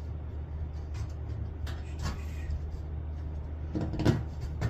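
Steady low mechanical hum, with a few faint taps and clicks of sheet-metal ductwork being handled, and a short voice sound about four seconds in.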